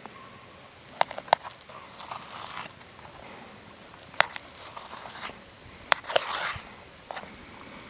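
Campfire crackling: sharp pops from the burning wood every second or two, with a short burst of hissing about six seconds in.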